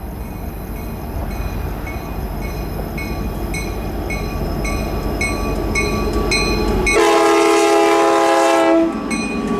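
Freight train locomotive's air horn sounding one blast of about two seconds, a chord of several steady tones, near the end, over the rumble of the approaching train growing louder. A grade-crossing bell dings steadily about twice a second.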